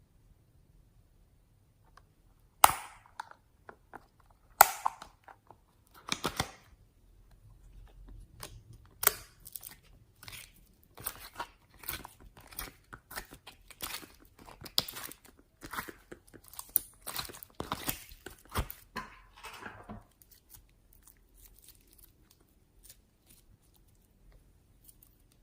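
Slime being squeezed, stretched and folded by hand, giving sticky clicks, pops and crackles. There are a few sharp pops at first, a dense crackling stretch in the middle, then only scattered faint clicks.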